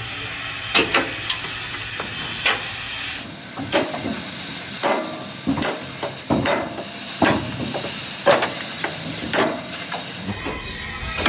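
Repeated sharp metal knocks, about one every half second to a second, like hammer blows on steel. A steady high hiss runs under them from about three seconds in until shortly before the end.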